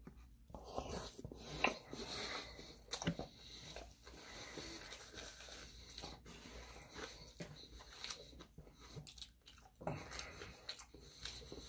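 A person chewing a mouthful of sushi roll close to the microphone: soft, scattered wet mouth clicks and smacks.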